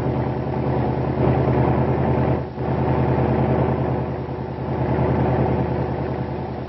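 Hill-climb race car engine running under load, a steady drone that swells and fades, with a brief drop about two and a half seconds in. Old newsreel sound, dull and cut off in the highs.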